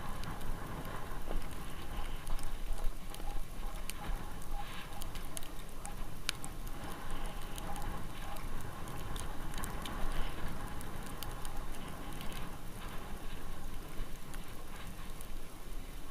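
Bicycle tyres rolling over snow, a continuous crunching crackle with many small clicks.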